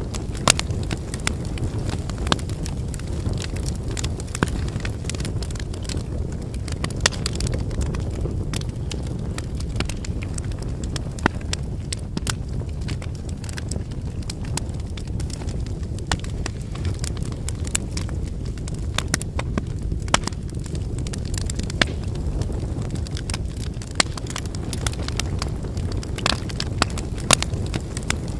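Wood fire burning, its firewood crackling with frequent irregular sharp pops over a steady low rumble.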